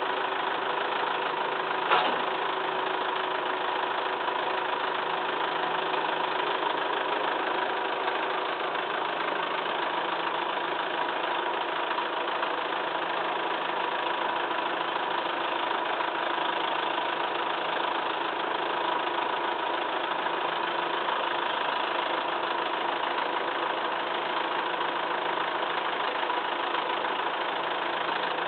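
Massey Ferguson 2635 tractor's diesel engine running steadily at idle, with a single sharp metallic knock about two seconds in.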